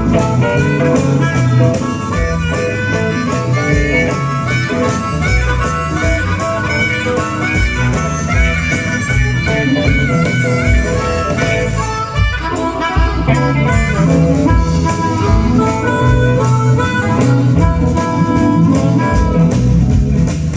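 Live blues band playing, a harmonica carrying the lead over guitar and a steady bass line.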